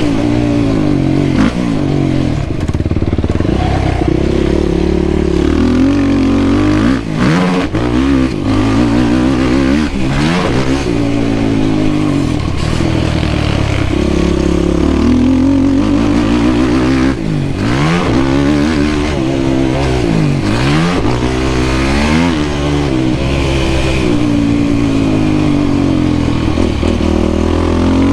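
Yamaha YFZ450R quad's single-cylinder four-stroke engine under hard riding, revving up and dropping back over and over as the throttle is opened and chopped, with a few brief cuts and clatters.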